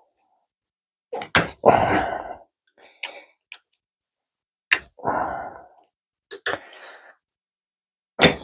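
Tool work on a screw head being deliberately marred: several sharp metal knocks, the main ones about a second in, near the middle and at the end, each followed by about a second of noisy rasp.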